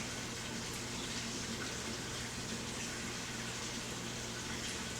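A steady, even hiss with a faint low hum underneath, holding level throughout with no distinct events.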